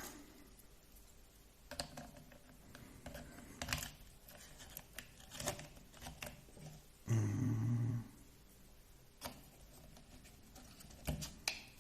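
Small plastic and metal RC car parts being handled and clicked together, a scatter of light taps and clicks. About seven seconds in, a low hum lasts about a second and is the loudest thing.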